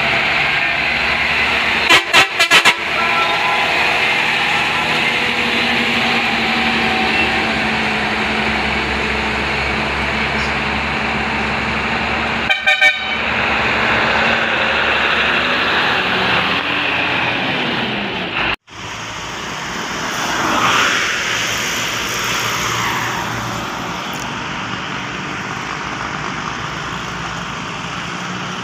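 Road traffic with heavy trucks running steadily, and a horn sounding in short, rapid toots twice: about two seconds in and again around thirteen seconds. The sound drops out for an instant about two-thirds of the way through.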